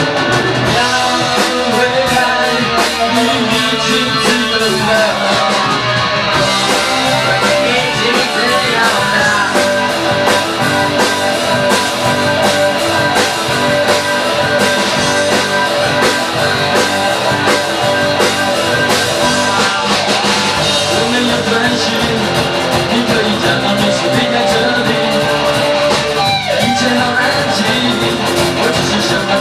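A band playing rock music with guitar, with a steady beat throughout.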